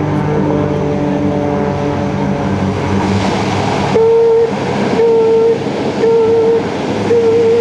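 The four Rolls-Royce AE 2100 turboprops of a C-130J-30 Hercules running with their propellers in reverse pitch to back the aircraft up: a steady propeller drone, with a hiss swelling about three seconds in. From about four seconds in, a loud horn-like tone repeats roughly once a second, about half a second each time.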